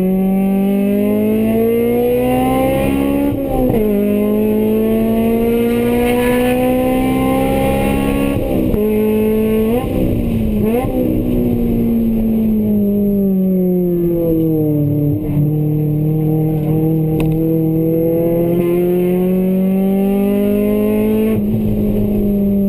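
Honda Integra's four-cylinder engine heard from inside the cabin under hard driving. The revs climb and drop sharply at gear changes about three and eight seconds in, blip up quickly twice around ten seconds, then fall away as the car slows before climbing again to another shift near the end.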